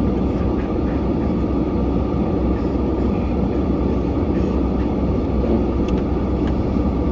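Snow plow truck's engine running steadily, a low, even rumble with no change in pace.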